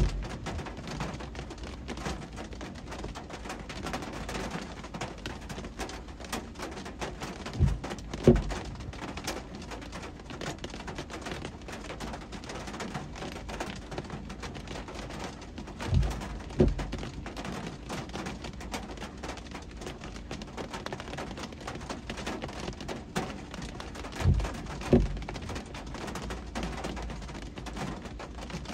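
Steady hiss of heavy rain and road noise heard from a car, with a pair of dull low thumps about every eight seconds.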